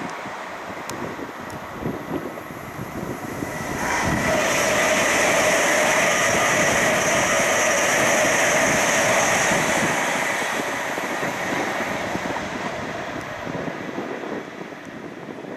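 Passenger train passing at speed on a main line. A steady rush of wheels on rail swells suddenly about four seconds in, with a held whine over it for several seconds, then dies away gradually.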